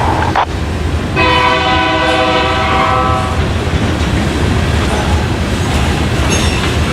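Locomotive air horn: one chord-like blast cuts off just after the start, then a second blast of about two seconds follows. Both sound over the steady low rumble of a train running on the rails.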